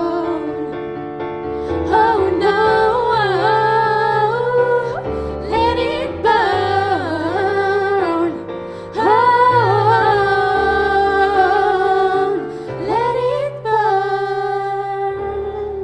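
Two voices singing a pop ballad in duet, in harmony, over sustained chords from an accompaniment, closing on a long held note.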